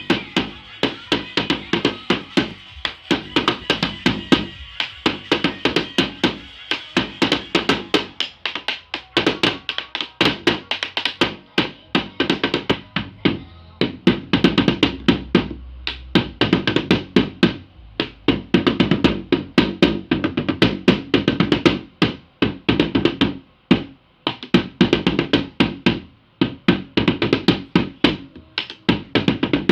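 Supporter-style drums played in fast, dense strikes with a few brief pauses, by a player who has only just started practising.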